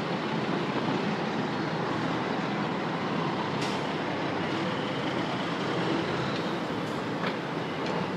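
Steady outdoor rushing noise, with a few faint sharp pops of distant fireworks in the second half.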